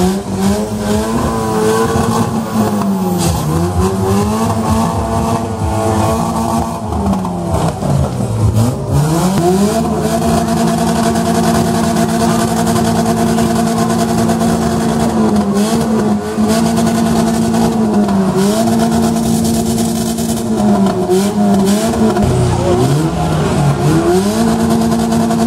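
Demolition derby car engines revving hard: the revs rise and fall repeatedly for the first several seconds, then are held high for long stretches with brief dips, as the cars shove against each other. Scattered bangs of the cars colliding sound over the engine noise.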